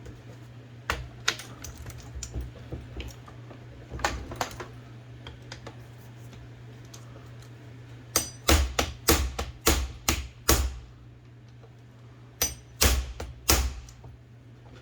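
Sharp metallic taps on part of an IBM Selectric II typewriter's mechanism, struck to knock a riveted piece loose. They come in groups: a few scattered early on, then a quick run of about seven strikes past the middle and three or four more near the end, over a steady low hum.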